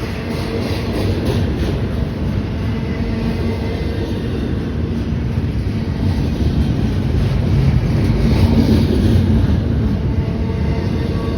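A train running past on the rails: a steady rumble of wheels and cars that grows louder about eight seconds in, then eases.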